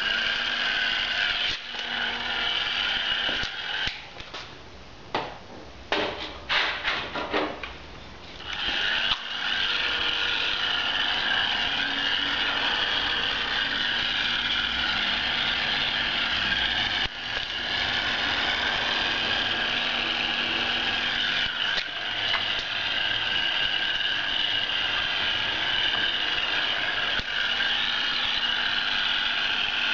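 Hair dryer blowing steadily into a desktop PC case, a loud even rush of air over a low motor hum. It stops about four seconds in, with a few short sharp sounds during the pause, and starts again after about eight seconds.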